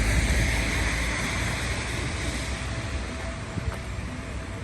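Outdoor rain ambience: wind rumbling on the microphone under a steady wet hiss, both easing off gradually.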